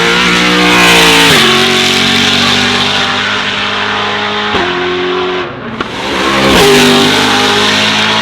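Brabham BT62's 5.4-litre V8 running hard under acceleration, its pitch dropping sharply at each of several quick gear changes.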